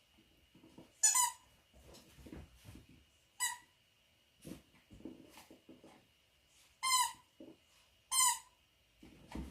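A dog's squeaky toy squeaked four times in short, high squeaks, about a second in, at three and a half seconds, and twice near the end. Quieter scuffling and chewing sounds come in between.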